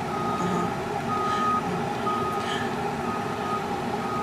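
A vehicle's reversing alarm beeping about once a second, five short single-tone beeps, over the steady engine and road noise of the bus.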